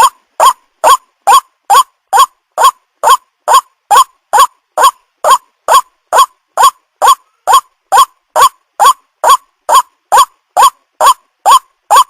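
White-breasted waterhen calling, one short, loud note repeated over and over at an even pace of about two a second.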